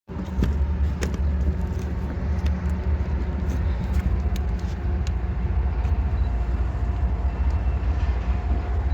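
Iowa Interstate freight train's diesel locomotives pulling through, a steady low rumble with scattered clicks and light metallic rattling.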